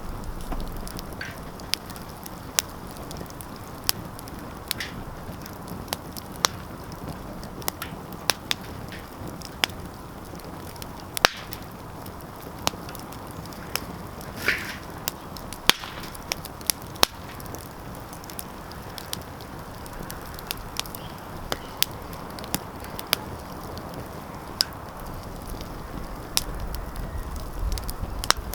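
Wood fire crackling, with sharp irregular pops and snaps over a soft steady rumble of burning, and a brief hiss about halfway through.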